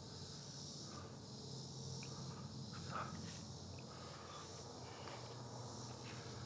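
Steady high-pitched chorus of insects, with faint scattered rustles and a small snap about three seconds in.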